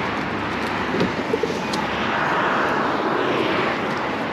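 Steady rush of wind and road noise from a moving motorcycle, with the engine underneath, swelling a little in the middle.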